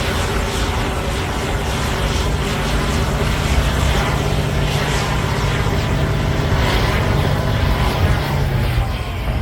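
Caterpillar D9L bulldozer's V12 diesel engine running steadily under load, with the clatter of the tracks and machine over it. The engine note drops slightly near the end.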